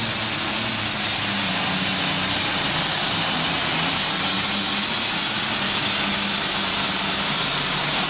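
Alcohol-fuelled super stock pulling tractor's turbocharged engine running flat out under load, with a high, steady turbo whine over the engine noise.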